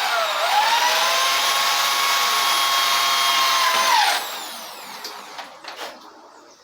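Small electric power tool motor, like a drill, spinning up, running steadily for about four seconds, then winding down.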